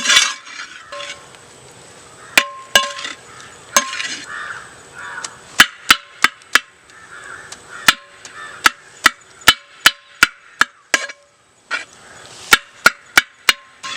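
A spatula chopping parotta and chicken in a frying pan: sharp, irregular strikes, often in quick runs of three to five, each with a short ring. A soft frying sizzle runs between them.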